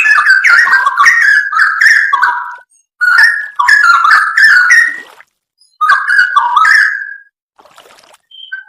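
Straw-headed bulbul (cucak rowo) singing: three runs of rapid, rich whistled notes stepping up and down in pitch, each a second or two long, with short pauses between them and a quieter gap near the end.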